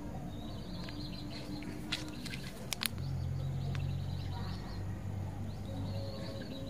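Small birds chirping in the background, with a few sharp clicks about two to three seconds in over a steady low hum.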